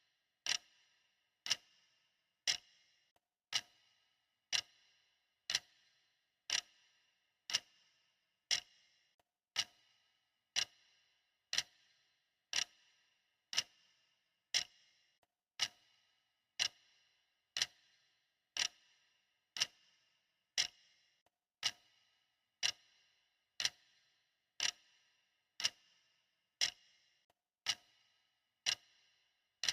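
Clock ticking steadily, one tick a second, each a sharp click with a brief metallic ring.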